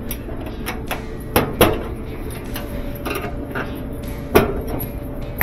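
Irregular metallic knocks and clinks of hand tools and parts being worked on an old Whirlpool washer while its drive hub is taken off, with two louder strikes a little over a second in and the loudest one past four seconds in.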